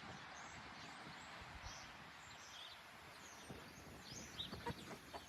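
Birds chirping faintly over a steady outdoor hiss, with a few soft knocks about three and a half to five seconds in.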